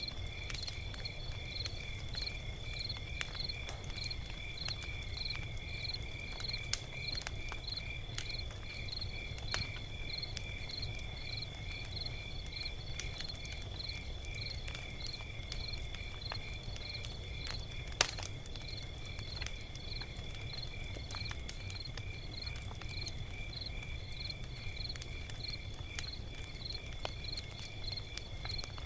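Log fire crackling, with scattered small pops and one sharp louder pop about eighteen seconds in, over a low steady rumble. A cricket chirps evenly and continuously behind it.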